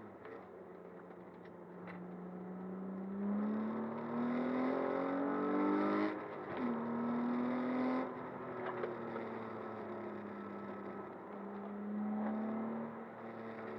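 Car engine running through a Vibrant aftermarket exhaust under acceleration. Its pitch climbs steadily, drops sharply about six seconds in, holds and eases off, then rises again briefly near the end.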